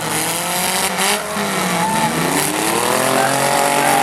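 Several derby vehicles' engines revving at once, their pitches rising and falling and overlapping, over a steady rush of track noise.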